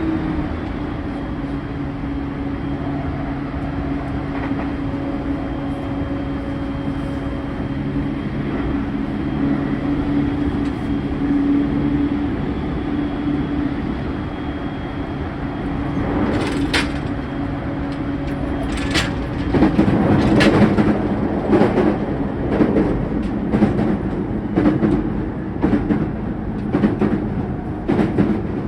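JR E231-0 series electric train running, heard from inside the motor car: a steady traction-motor hum over wheel-on-rail rumble. About two-thirds of the way in comes a series of sharp, irregular knocks, wheels crossing rail joints or points.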